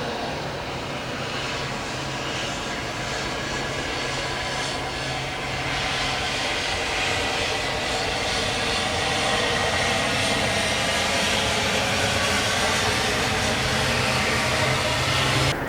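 Airliner engines running steadily, growing louder about halfway through as the aircraft comes closer, then cutting off abruptly at the end.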